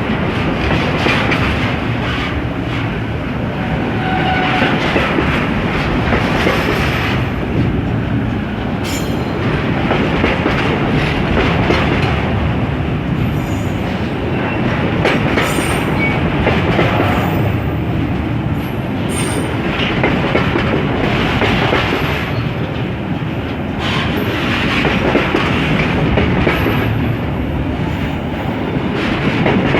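Container freight train's wagons rolling past, a steady heavy clatter of wheels over the rails. Short, faint, high wheel squeals come and go several times.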